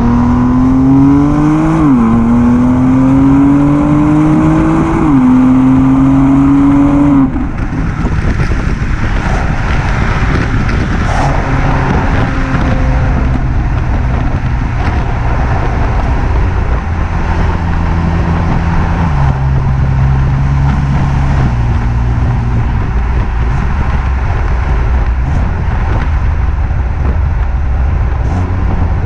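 BMW M2 Competition's twin-turbo straight-six, heard through its stock exhaust, accelerating with rising revs and dropping pitch at two upshifts. About seven seconds in, the sound changes abruptly to a steadier run at lower, gently varying revs.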